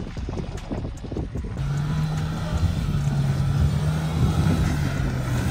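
Off-road SUV engine running at a steady speed. About a second and a half in, a steady low drone sets in over a rough rumble.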